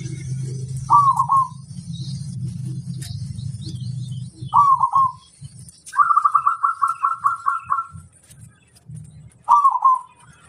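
Zebra dove (perkutut) cooing: short clipped coos about a second in, at about four and a half seconds and near the end, and a longer rapid string of coos around six seconds in. A low hum sits underneath during the first half.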